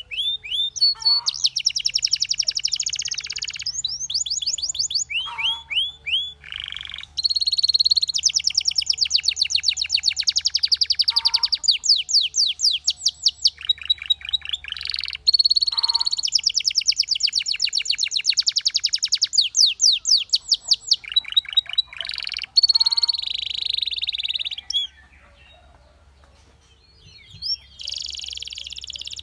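Canary singing: long, high trills of fast repeated notes, one run after another, with a short pause about 25 seconds in.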